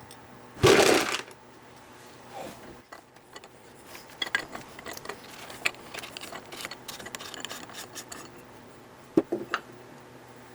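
Metal parts of an old turbine governor being handled during dismantling: a loud metallic clunk and rattle near the start, a run of small clinks and taps, then two sharp knocks near the end.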